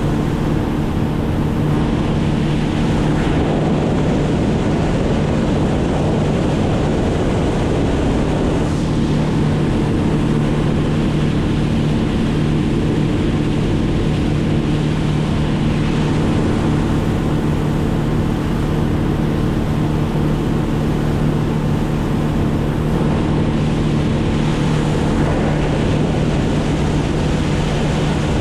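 Boat motor running steadily at constant speed, with water rush and wind on the microphone.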